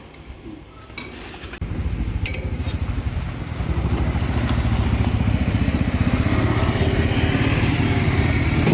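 A few light metal clinks, then an engine starts running loud with a fast low pulsing beat, about two seconds in.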